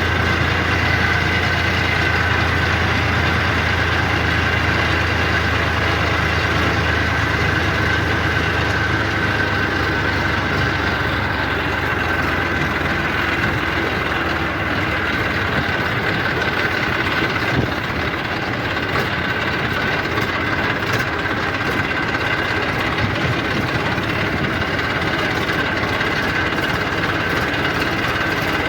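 Eicher 333 tractor's diesel engine running steadily, with a constant drone; its deep low rumble eases a little about ten seconds in.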